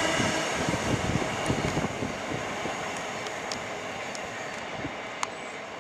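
Container freight train's wagons running away down the track, the wheels rumbling and knocking over the rails as the sound fades steadily.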